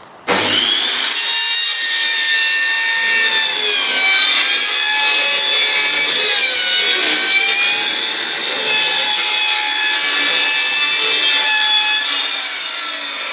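An electric saw cutting through a wooden board in one continuous run. It starts abruptly, and its motor whine dips in pitch a few times as the blade bites.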